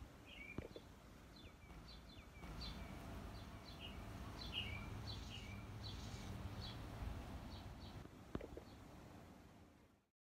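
A small bird chirping over and over, a quick series of short, downward-sliding chirps, with a low steady hum underneath from about two seconds in. The sound cuts off just before the end.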